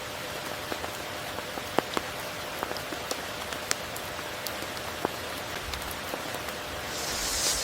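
Steady tropical rain falling, with many individual drops ticking sharply at random over the even hiss of the downpour. A brief, louder hiss swells near the end.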